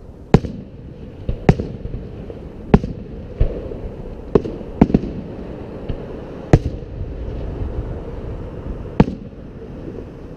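Fireworks display: aerial shells bursting with sharp booms, about ten of them at uneven intervals. The loudest come about half a second, three seconds and six and a half seconds in, with a low rumble continuing between the bangs.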